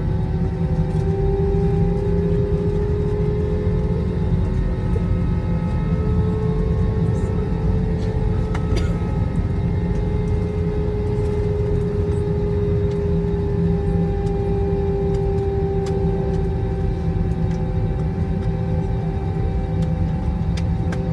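Airbus A321's jet engines and airframe heard inside the cabin: a steady rumble with a humming tone that wavers slightly in pitch, the engines held at a constant setting.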